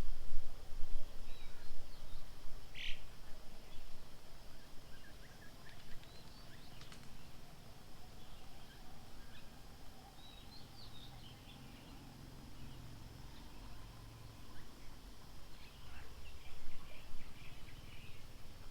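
Small birds chirping and calling on and off, with one louder call about three seconds in, over a low background rumble.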